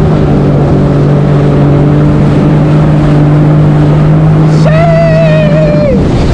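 Jet ski engine running steadily under throttle, loud on the rider's camera. A high wavering tone joins for about a second and a half near the end, and the engine note drops off right at the end.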